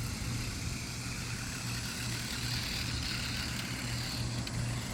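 Toy-grade RC truck's small electric drive motor and gears running with a steady, uneven hum; the motor sounds weak because the battery is running low.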